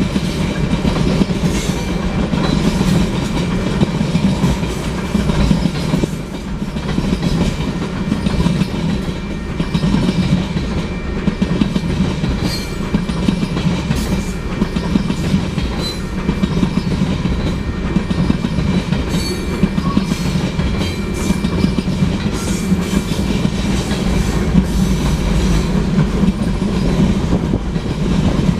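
Freight train cars rolling past at speed: a steady rumble of steel wheels on the rails, with scattered clicks of wheels crossing rail joints and a faint ringing tone from the wheels.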